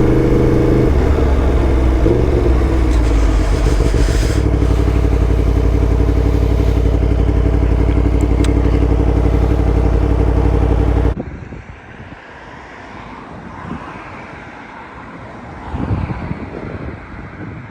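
Yamaha MT10's crossplane inline-four engine through a titanium Akrapovic exhaust, running at steady revs that step up about a second in and again about four seconds in. The sound cuts off abruptly after about eleven seconds, leaving much quieter wind noise.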